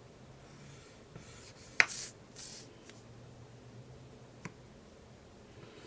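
Paper rustling and sliding as sheets are handled, with a sharp click about two seconds in and a smaller one near the end.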